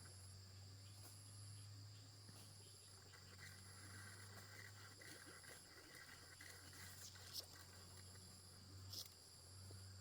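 Faint ambience: an insect calling in short high-pitched pulses about once a second over a steady low hum, with two small clicks near the end.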